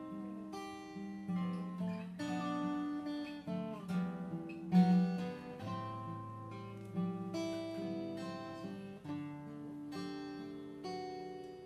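Acoustic guitar strumming chords and letting them ring, playing the instrumental intro of a slow love song before the singing comes in.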